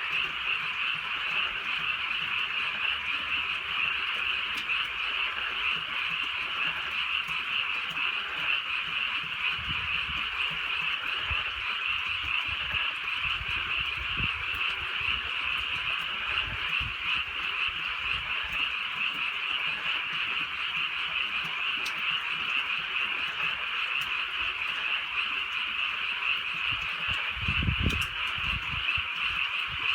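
A dense, continuous chorus of many frogs calling together at night, steady throughout. Low rumbles come and go underneath, with a stronger one near the end.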